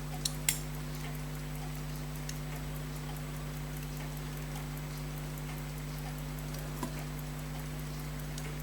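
Small sharp metallic clicks as watch parts and tweezers are handled at the bench, two close together near the start and one more near the end, over a steady electrical hum and a faint, regular ticking at about five ticks a second.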